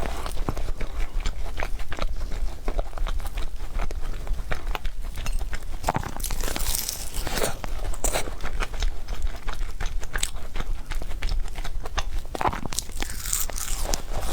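Close-miked eating sounds: a person biting and chewing food, with irregular crunching and wet mouth clicks.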